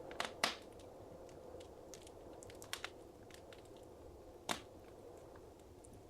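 Wood fire crackling in a fireplace: irregular sharp pops and snaps over a soft steady hiss, the loudest pops about half a second in and again at about four and a half seconds.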